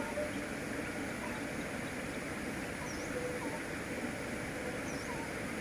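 Steady running noise of a train hauled by a D19E diesel-electric locomotive, with a few faint bird chirps over it.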